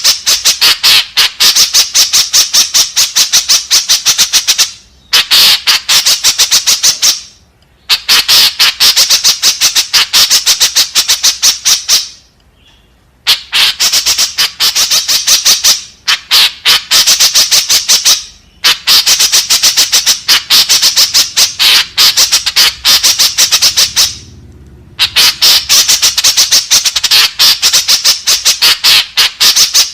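White-breasted woodswallow (kekep babi) giving loud, harsh calls in rapid runs of many notes a second. The runs break off for short pauses every few seconds. This is the bird's flock call, used as a lure.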